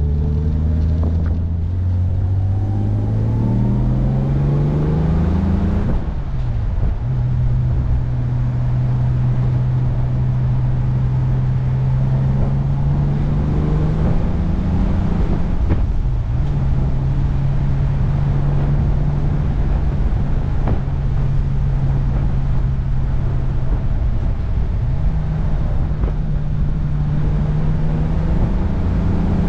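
1966 Jaguar E-Type Series I's straight-six engine pulling through the gears on the move. The revs climb for the first few seconds and drop with a gear change about six seconds in, then run steady, climb and drop again with another change near the middle, and rise again near the end, over steady wind and road noise.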